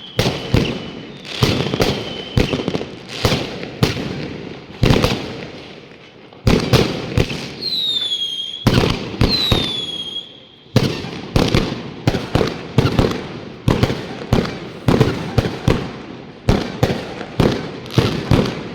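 Fireworks bursting continuously, sharp bangs close together with rumbling tails. Twice, about halfway through, a whistling firework shrieks with a falling pitch.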